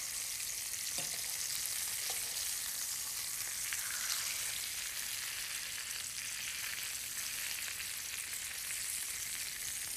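Prosciutto-wrapped halibut pieces sizzling steadily in hot oil in a stainless steel sauté pan as they brown, with a couple of faint clicks of metal tongs against the pan about one and two seconds in.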